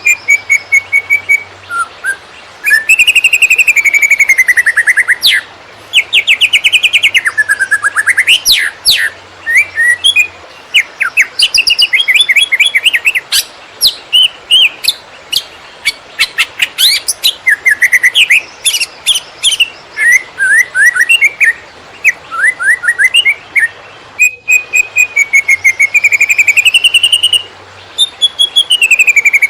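Greater green leafbird (cucak ijo) singing a fast, nearly unbroken song of slurred rising and falling whistles mixed with rapid chattering trills, in the 'konslet' style.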